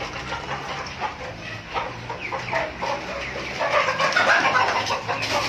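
Village chickens clucking, with a louder stretch of calls a little past the middle.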